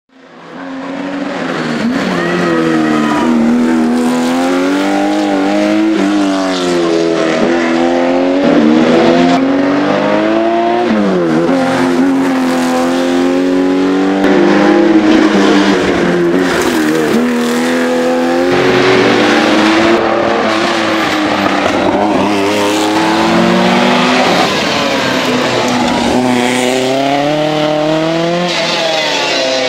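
Historic rally car engines at full throttle. The engine pitch climbs and then drops at each gear change, again and again, with sharper falls and rises where the cars brake and blip down for corners. The sound fades in over about the first second.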